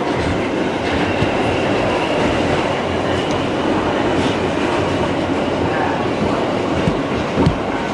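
New York City Subway G train heard from inside the car while it runs through the tunnel between stations: a steady rumble of wheels and motors, with a few sharp rail clicks near the end.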